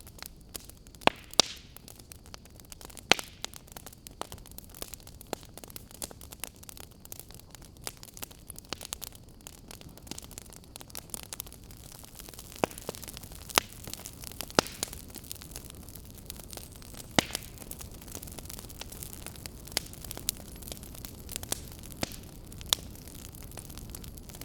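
Fire crackling: irregular sharp pops and snaps, a handful much louder than the rest, over a steady low hiss and rumble.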